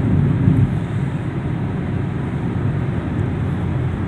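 Vehicle driving on a road: a steady low rumble of engine and road noise.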